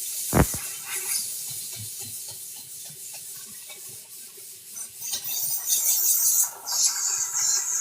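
A single low thump, then a high hiss in two bursts over the last few seconds.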